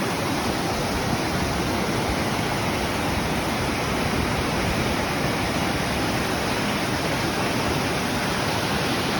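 Mountain waterfall and stream rushing loudly beneath a footbridge, a steady, even roar of falling water.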